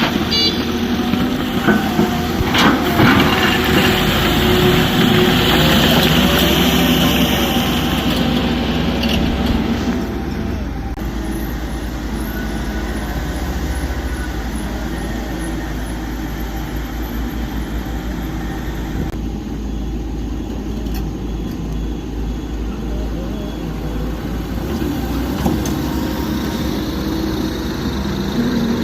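Heavy diesel construction machinery running at work: a deep engine rumble, louder and busier over the first ten seconds with a few sharp knocks, then steadier.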